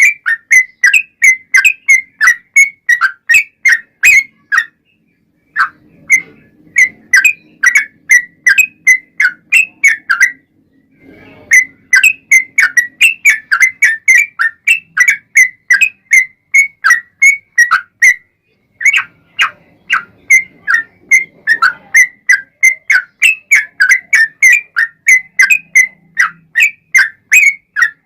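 Yellow-vented bulbul (trucukan) singing in long runs of short, loud whistled notes, about three to four a second, broken by brief pauses three times. This is the long rolling song ('ropel panjang') used as a lure to make other bulbuls answer.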